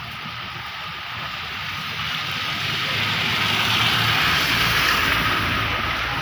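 Heavy rain pouring down, swelling louder around the middle and easing a little toward the end.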